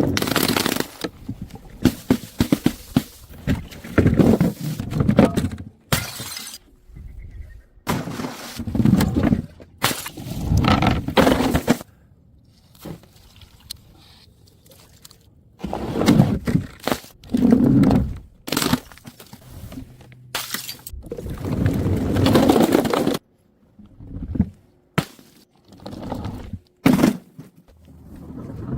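Glass bottles breaking and shattering in a long string of separate crashes, with short pauses between them.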